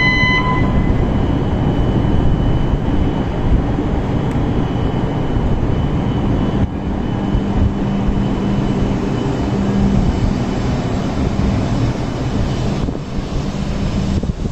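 E5 series Shinkansen train pulling away from the platform and gathering speed, its running noise a loud, steady rush with a low hum from about six seconds in. A steady high electronic tone cuts off just after the start, and the noise dips near the end as the last car goes by.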